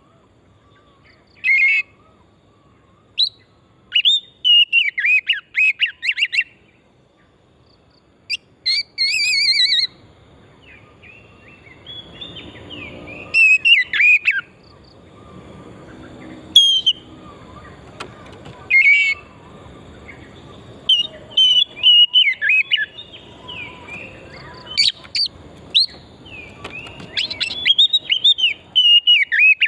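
Oriental magpie-robin (kacer) singing in full voice: a varied run of loud whistled phrases, pitch glides and rapid trills, delivered in bursts with short pauses between them.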